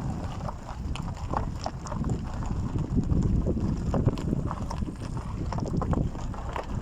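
Irregular knocks and clicks, like steps on stony ground, over a low rumble of wind on the microphone.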